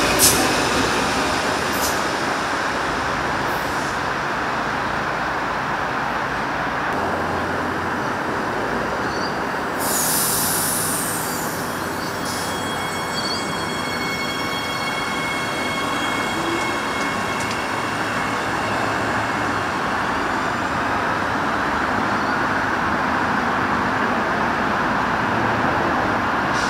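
Commuter trains running through a station. A stainless-steel railcar rumbles past close by at the start. About ten seconds in there is a brief high hiss, and then a red 4000 class electric multiple unit passes with a steady high electric whine over the wheel and rail rumble.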